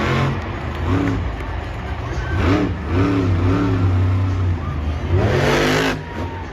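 Monster truck engine revving hard, its pitch climbing in surges about two and a half seconds in and again near the end.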